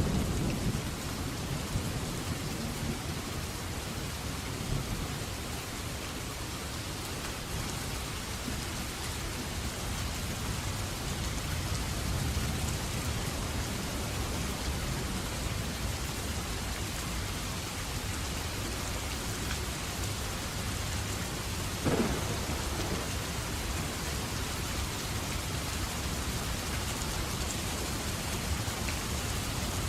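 Steady rain with rolling thunder, the low rumble strongest at the start and dying away. A single sharp crack about two-thirds of the way through.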